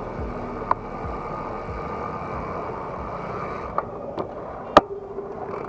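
Steady wind and road noise on an action camera while riding, with a sharp click less than a second in and three more in the second half, the loudest near the end. A faint steady hum sets in after the last click.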